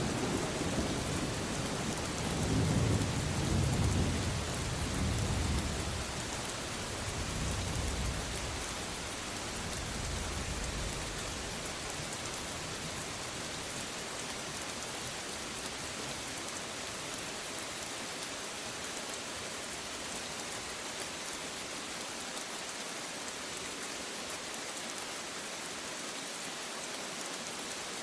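Steady rain falling, with a roll of thunder rumbling low through the first ten seconds or so and dying away, leaving only the rain's hiss.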